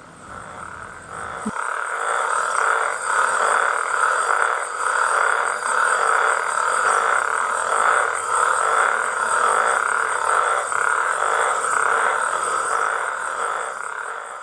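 A dense chorus of frogs calling, pulsing, over a steady high-pitched whine; it swells up about a second and a half in and eases off near the end.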